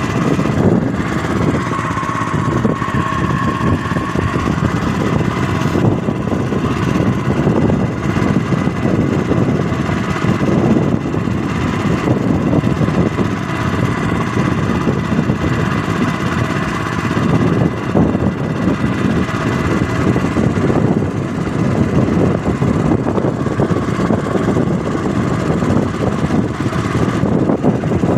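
A small boat's engine running steadily.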